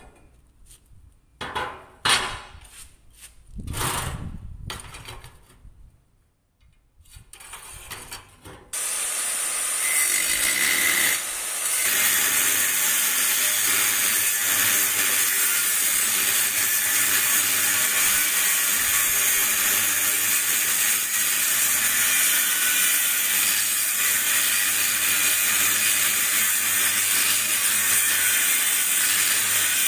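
Workshop tool sounds: a few scattered knocks and clicks, then about nine seconds in a loud, steady hissing noise starts and keeps going.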